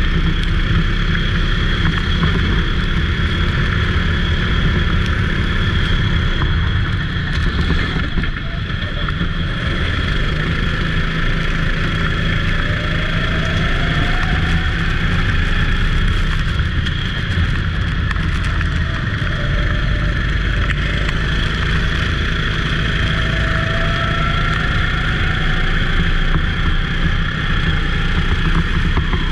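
Go-kart engine running hard under race load, steady and loud, its pitch climbing now and then as the kart accelerates out of corners.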